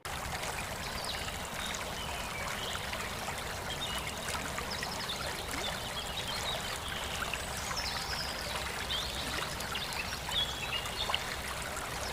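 Water running and trickling steadily, with many small splashy flickers.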